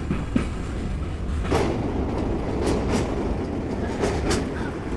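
Vistadome coach wheels running on the track: a steady rumble with the clickety-clack of wheels crossing rail joints, several sharp clacks, a couple of them in quick pairs.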